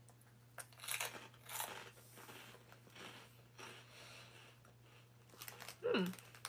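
A person crunching and chewing caramel-flavoured corn puffs, in irregular crunches over the first few seconds that then die down.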